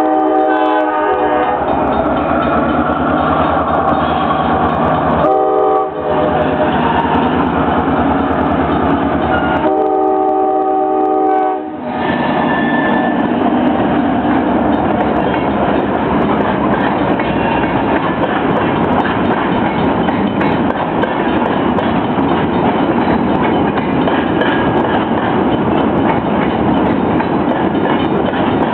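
A train sounds its multi-tone horn for a road crossing: the end of one blast, then a short blast about five seconds in and a longer one near ten seconds. Throughout, the train rolls past with a steady rumble and clickety-clack of wheels on the rails.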